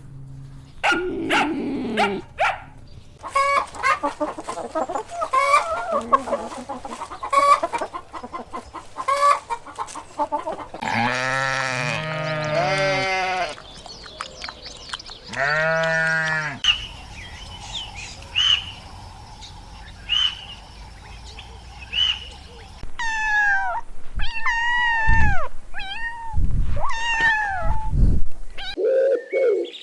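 A series of different animal calls, one after another: scratchy clicking sounds, then two long calls with a rich, held pitch, then short repeated chirps and quick sweeping bird-like chirps with a few low thumps.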